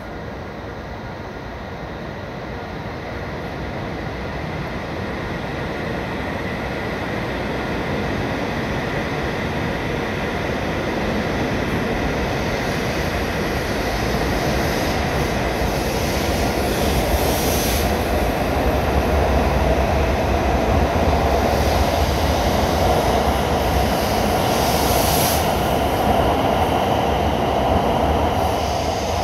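E7 series Shinkansen pulling out of the station, its running noise growing steadily louder for about the first half as it gathers speed along the platform. It then holds and starts to fall away at the very end as the last cars go by.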